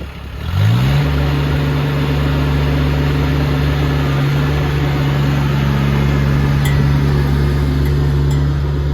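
Compact tractor's diesel engine catches about half a second in, its pitch rising briefly, then runs at a steady idle.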